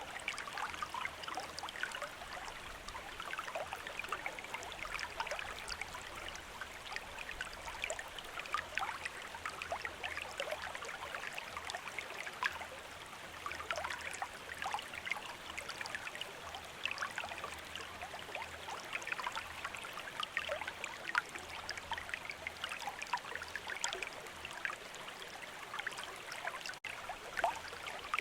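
Shallow river or stream running steadily, water babbling with many small splashes and gurgles, broken by a split-second dropout near the end.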